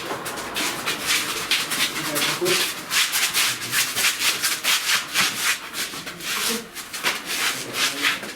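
Rough scraping and rubbing, several strokes a second in an irregular run, as the heavy cast-iron firebox is shifted and manhandled over its boards and base.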